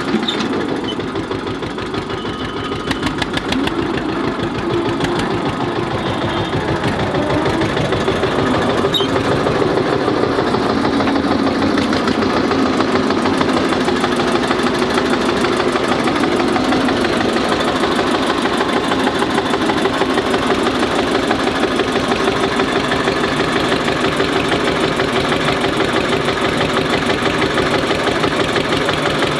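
Diesel tractor engine idling steadily with an even knocking beat, building a little over the first several seconds and then holding steady.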